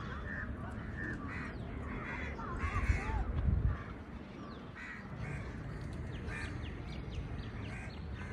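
Birds calling: short, harsh calls repeated about every half second, with thin high chirps that fall in pitch in the second half. A low rumble, the loudest thing, comes about three seconds in.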